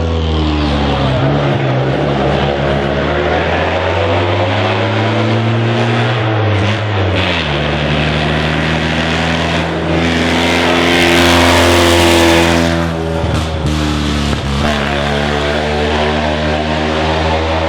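Classic racing car engine accelerating hard up the hill through the gears, its pitch climbing and then dropping at gear changes about seven and fourteen seconds in. It is loudest as the car passes close, around ten to twelve seconds in.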